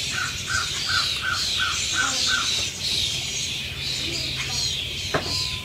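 Birds calling: a run of seven short, even chirps, about three a second, over a steady stream of higher, falling calls. A sharp click comes near the end.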